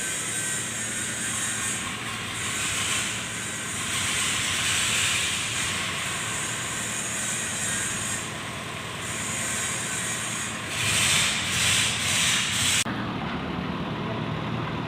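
Kubota D905 three-cylinder diesel engine running steadily under a loud, rushing hiss that swells and fades several times, then cuts off suddenly near the end while the engine keeps running.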